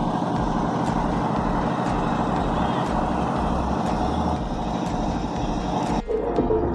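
A motor vehicle's engine running steadily with a dense rumbling noise, cut off abruptly about six seconds in.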